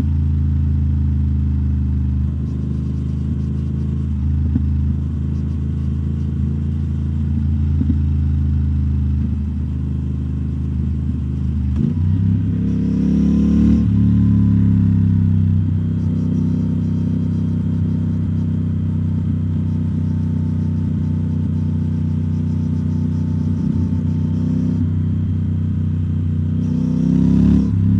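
2021 Triumph Speed Twin 1200's parallel-twin engine running steadily on the road through British Customs Turnout exhaust tips. The engine note changes about twelve seconds in and again near the end, as the revs shift.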